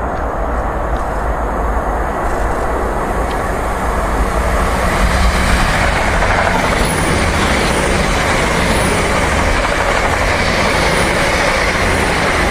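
Ten-car Class 800 train running through: a continuous rush and rumble of wheels on rail that grows louder about a third of the way in, with faint high squeals repeating in the second half.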